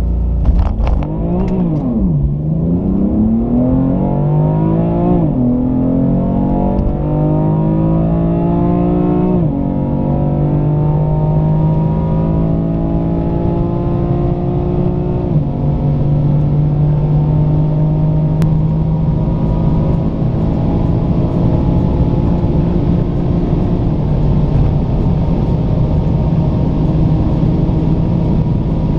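BMW M4 Competition's twin-turbo 3.0-litre inline-six pulling at full throttle from a standstill, heard from inside the cabin. The revs climb and drop back sharply at each upshift, four times in the first fifteen seconds or so, then rise only slowly through a long pull in the top gears at high speed.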